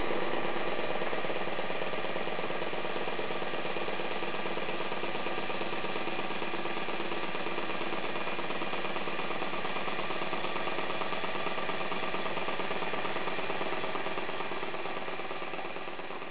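Small Böhm Stirling engine fitted as a generator, running steadily with a fast mechanical rattle. It fades away near the end.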